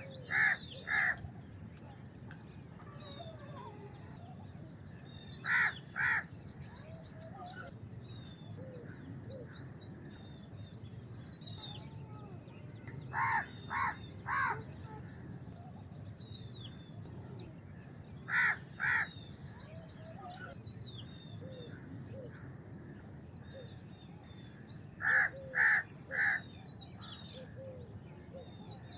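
House crows cawing in short series of two to four harsh caws, a series every few seconds, with small birds chirping continually in the background between them.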